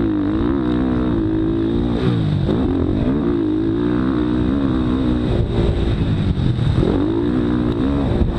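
Motocross dirt bike engine revving up and down as the throttle is worked, its pitch rising and dropping roughly every second.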